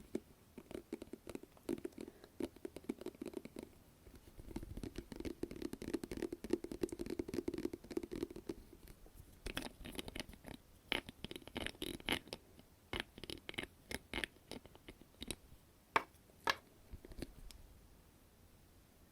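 Close-miked ASMR scratching and tapping: a dense run of rapid scratchy crackles for about the first half, then scattered sharp taps and clicks, a few much louder than the rest.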